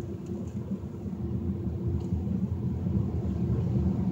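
Steady low rumble of a car heard from inside its cabin, with a faint steady hum, getting slightly louder as the car moves into the car wash bay.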